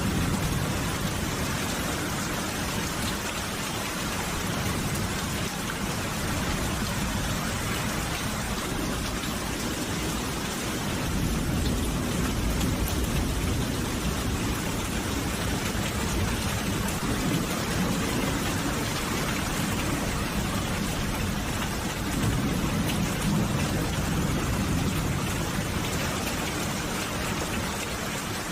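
Steady rain falling as an even hiss, with low rumbles of thunder swelling now and then, around the middle and again near the end.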